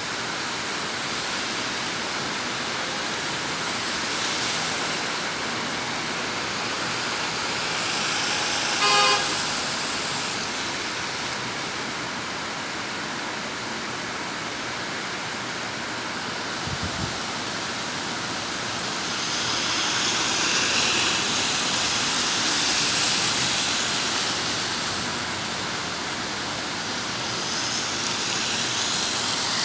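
Heavy rain pouring down as a steady hiss that swells and eases, with a vehicle horn tooting once briefly about nine seconds in.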